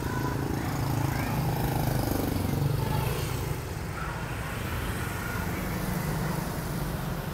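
Street traffic: a steady low engine rumble with road noise, easing slightly about three seconds in.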